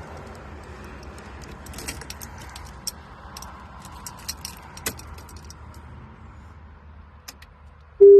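Keys jangling and clicking in a hand over a steady low hum in the van's cabin, with the engine stopped. Near the end comes one short, loud electronic beep.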